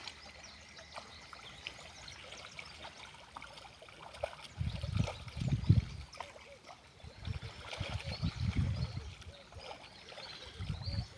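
Fish splashing and plopping at the surface of shallow wetland water: many small scattered splashes throughout. From about halfway in, bouts of low rumbling come and go and are the loudest sound.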